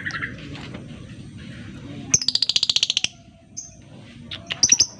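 Lovebird calling: a fast chattering trill of about fifteen high clicking notes lasting about a second, starting a little over two seconds in, then a few sharp chirps near the end. The trill is the lovebird's 'ngekek' song used as a lure to set other lovebirds singing.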